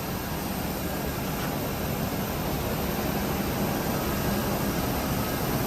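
Jet aircraft engine noise: a steady rushing sound with a low hum underneath that slowly grows louder.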